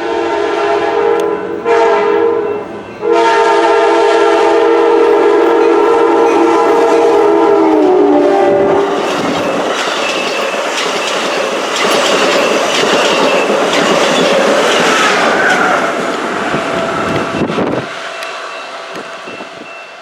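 Passing train sounding its multi-tone horn in three blasts, the last one long and dropping slightly in pitch as the train goes by. Then comes the loud rush and clatter of the train passing, which stops abruptly near the end.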